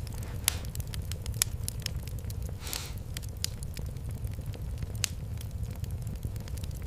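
Wood fire crackling in a fireplace: a steady low rumble of flames with irregular sharp pops and snaps, the loudest about half a second and a second and a half in, and a short hiss around the middle.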